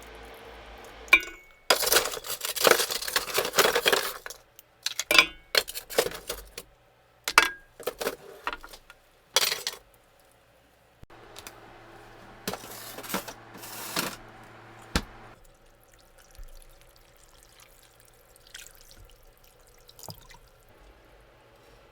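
Meal preparation: a busy run of clatters and short pours, with dishes and glassware clinking and liquid poured, then a steady low hum for a few seconds with a few more pours, before things quiet to scattered light clicks.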